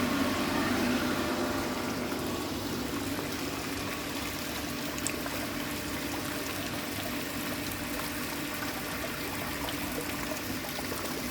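Water from a small pump-fed waterfall pouring steadily out of an overflowing upper basin into the basin below.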